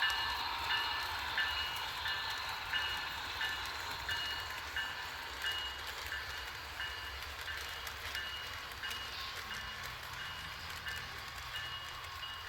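HO-scale model train running, with a bell from the locomotive's sound system ringing steadily, about three strikes every two seconds, over a low engine rumble. It grows gradually fainter.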